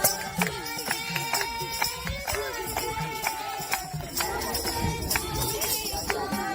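Group devotional singing of a bhajan, with held accompanying notes and jingling hand percussion keeping a regular beat.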